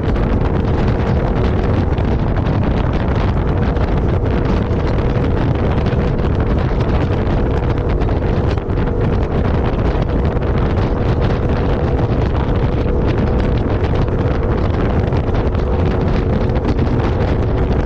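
Heavy wind buffeting the microphone, with a steady vehicle engine drone underneath, as from a moving off-road 4x4.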